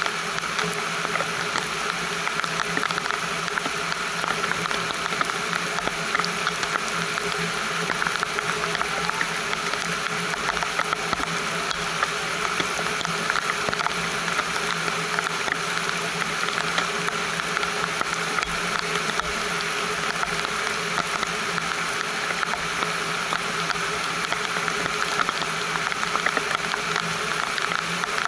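Steady rain: a dense, even patter of countless drops falling on a shade-house roof and on rows of potted plants.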